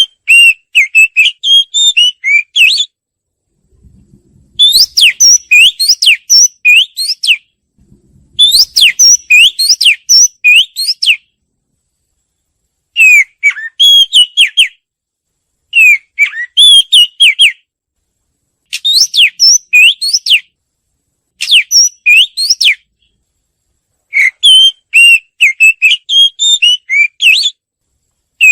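Oriental magpie-robin singing: about eight loud phrases of quick, varied whistled notes, each phrase one and a half to three seconds long, separated by short pauses.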